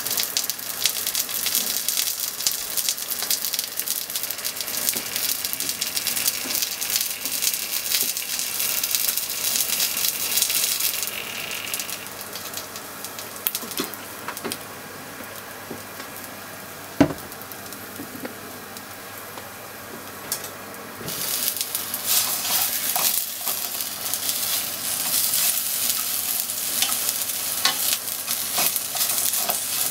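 Scallop mantle strips sizzling and crackling in oil in a nonstick frying pan. The sizzle quietens for several seconds in the middle, broken by one sharp knock. It grows louder again near the end as the strips are stirred with a wooden utensil clicking against the pan.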